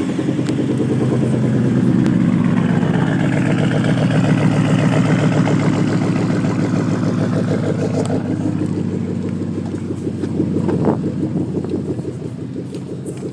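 2013 Ford Mustang GT's 5.0-litre V8, exhaust open with the resonator and mufflers deleted, idling loudly just after a start. The idle settles a little lower near the end, with a short bump in level about eleven seconds in.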